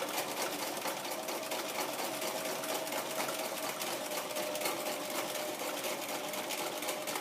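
Domestic sewing machine stitching steadily at speed under a ruler foot: a rapid, even chatter of needle strokes over a faint steady motor whine.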